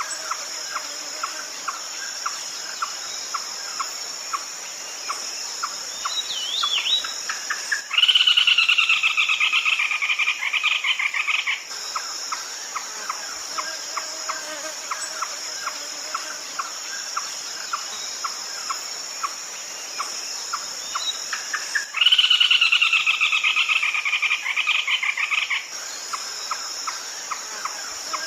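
Red-legged crake calling twice, each bout a loud rapid series of notes lasting about three and a half seconds and dropping slightly in pitch. Between the bouts a steady high insect drone and regular faint ticking carry on.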